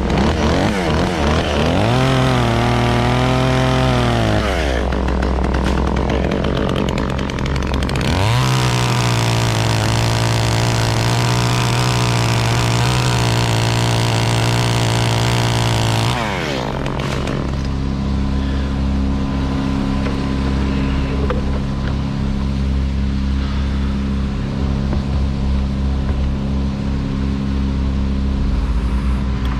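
Chainsaw revved up briefly, then held at high speed for about eight seconds before dropping off. A steady engine drone runs underneath throughout and continues alone afterwards.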